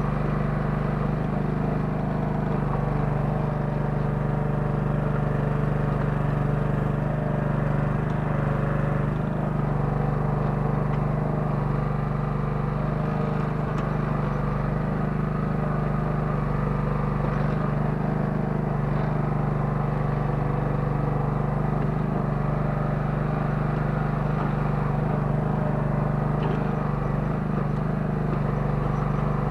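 Kellfri towable mini excavator's 9 hp engine running steadily at a constant speed while the machine digs.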